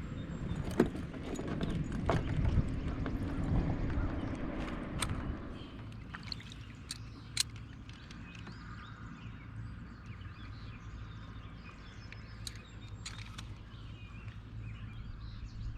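Movement on a fishing kayak on the water: rumbling and water noise with scattered sharp clicks and knocks for the first few seconds, settling after about six seconds into a low steady hum with only a few clicks.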